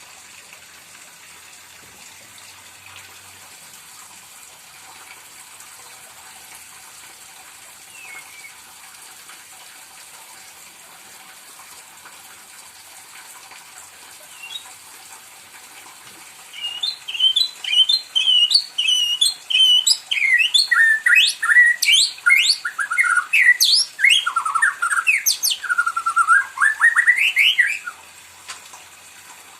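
White-rumped shama (murai batu) singing a long burst of fast, varied whistled phrases that starts about halfway in and lasts roughly eleven seconds, over a steady faint hiss.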